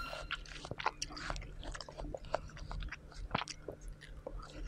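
A person chewing and biting fresh fruit, close to the microphone: a string of small, irregular wet clicks and soft crunches.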